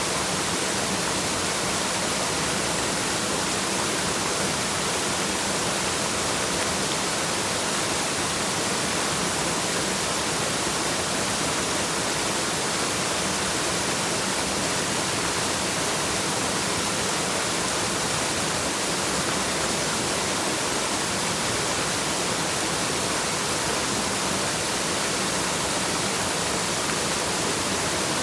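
Waterfall rushing in a steady, even hiss, strongest in the high range, with no change or separate splashes.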